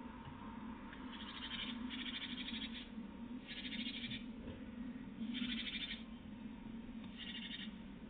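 Five short, rasping animal calls, each under a second long, repeated every one to two seconds over a steady low hum.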